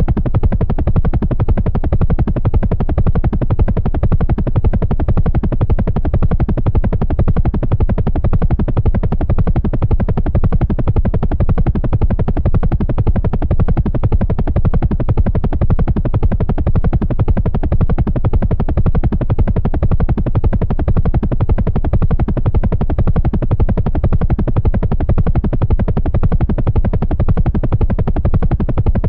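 Helicopter rotor and engine noise in flight: a loud, steady, rapid chopping that does not let up.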